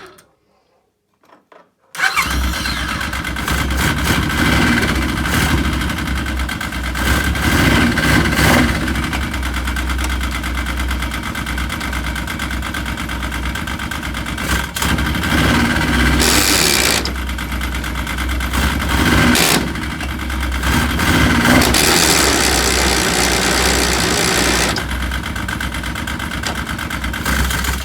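Yamaha RS Viking Pro snowmobile's engine starts up abruptly about two seconds in and runs loud, surging up and down several times, with the drivetrain grinding: the reverse gear cog is not fully engaging and is taking the edges off its teeth.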